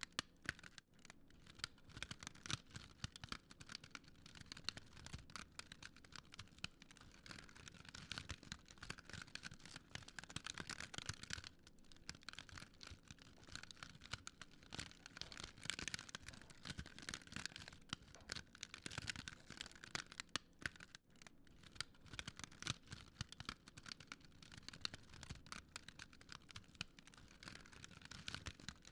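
Wood fire crackling and popping in dense, irregular snaps over a steady hiss.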